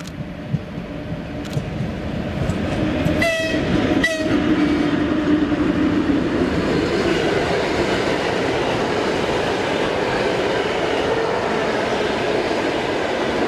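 An ED4M electric multiple unit sounds two short horn blasts about three and four seconds in as it approaches. Its rumble and wheel clatter then grow loud and run on steadily as it passes close by.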